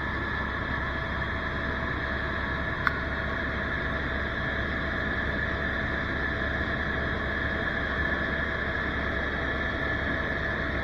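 Tour helicopter in flight: a steady engine-and-rotor drone with a high, even whine over it. A single short click comes about three seconds in.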